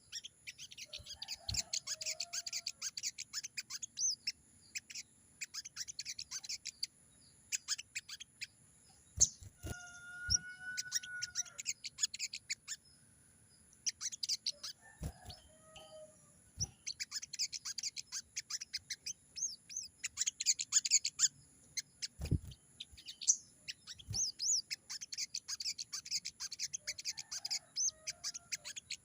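Sogon (sogok ontong) bird calling in bouts of rapid, high chattering trills a few seconds long, with short pauses between them. A brief lower whistled note comes about a third of the way in, and a few faint low notes and clicks fall between the bouts.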